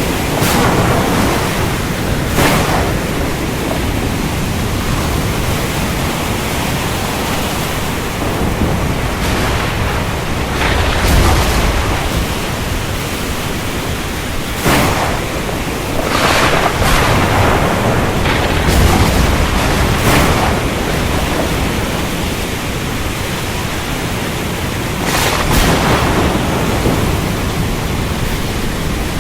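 Steady heavy rain hiss with thunder: several sharp cracks scattered through it and low rolling rumbles that swell and fade.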